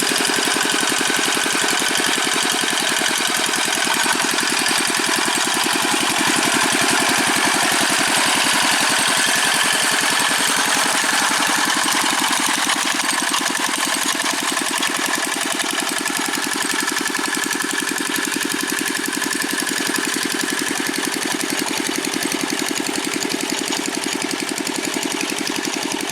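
Old Dongfeng single-cylinder diesel engine of a Quick G600 two-wheel hand tractor running steadily, with a fast, even firing beat.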